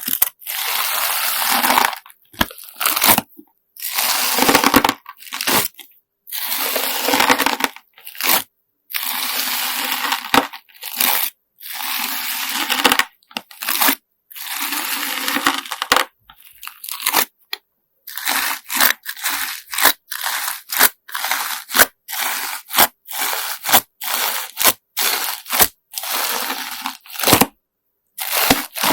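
Slime mixed with coloured sand being squeezed and pressed by hand, giving crunchy, gritty squishes in bursts. The squeezes are long in the first half, then turn into quick, short ones about two-thirds of the way through.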